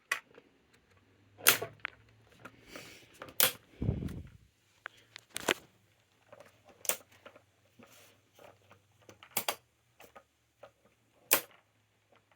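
Irregular sharp clicks and knocks from the small electric desk fan being handled and adjusted, with one dull thump about four seconds in, over the faint low hum of its motor.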